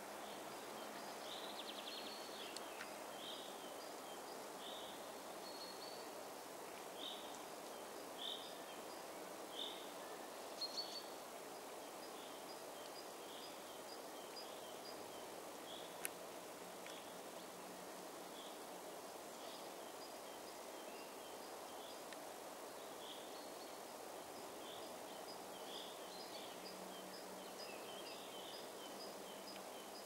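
Faint woodland ambience: small birds giving short high chirps about once a second, two series overlapping, over a steady background hiss. A few soft taps come around the middle, with one sharp click.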